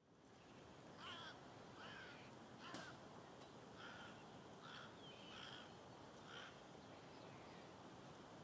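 A bird calling in a short repeated call, about eight times at roughly one-second intervals, over faint steady outdoor ambience; the calls stop about six and a half seconds in.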